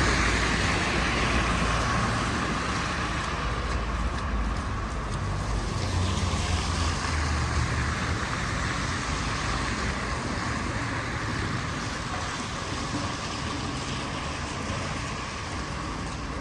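Street traffic: the low engine rumble and tyre hiss of passing vehicles, loudest at the start and easing off slowly.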